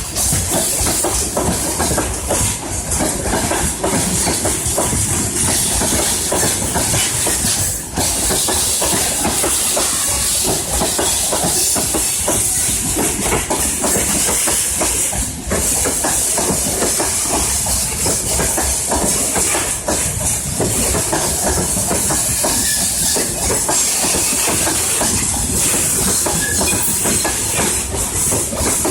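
Freight train rolling past close by: a steady loud rush of wheels on rail, with the clatter of wagons over the rail joints.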